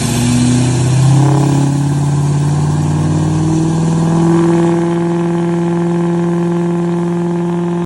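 Vehicle engine sound running steadily, rising a little in pitch over the first few seconds and then holding at an even pitch.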